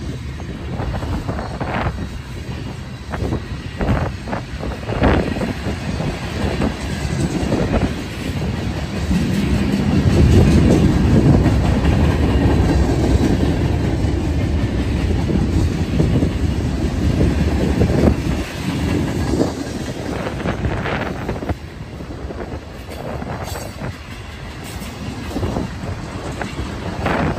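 Freight train cars rolling past: steel wheels clicking over rail joints over a steady low rumble. The rumble is loudest from about ten to eighteen seconds in.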